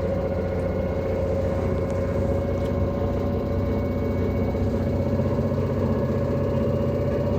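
LG direct-drive washing machine in its spin cycle, running with a steady whine that rises slightly in pitch over a heavy rumble: the extreme noise of a spin fault.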